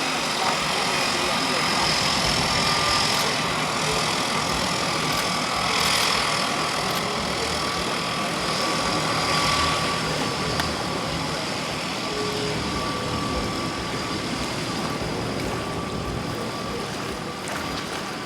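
Floatplane engine running steadily on the water, slowly fading over the last few seconds.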